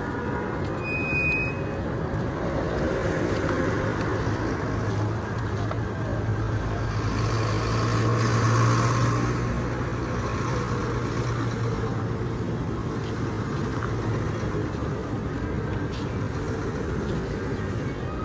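Road traffic: vehicle engines running in slow-moving traffic, with one heavy engine's low hum growing louder to a peak about halfway through and then fading.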